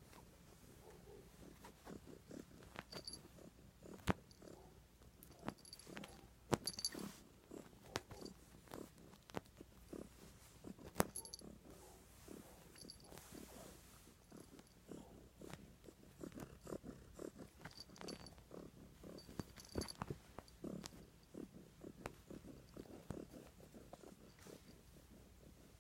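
Domestic cat purring close up, a quiet continuous low pulsing, with scattered sharp clicks and a few brief high tinkles.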